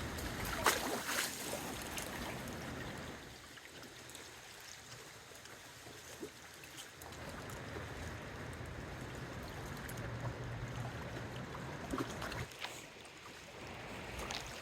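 Strong gusty wind buffeting the microphone with a low rumble, easing for a few seconds after about three seconds in and then picking up again. A brief louder rustle comes about a second in.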